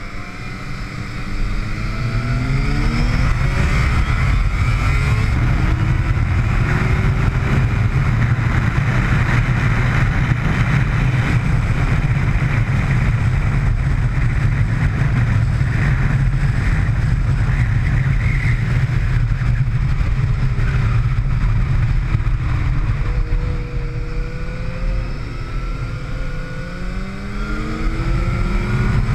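Motorcycle engine on track, rising in pitch through the gears near the start, then held at speed under a heavy rush of wind noise. About two-thirds through the engine falls in pitch as the bike slows for a corner, then rises again near the end as it accelerates out.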